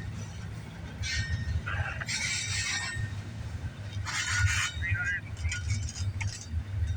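Freight train cars rolling past with a steady low rumble, and short metallic clinking and squealing bursts several times over it.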